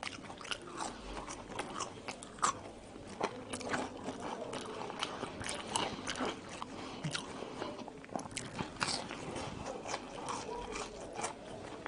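Chewing and biting French fries topped with ketchup and mayonnaise, with soft crunches and mouth clicks coming irregularly throughout.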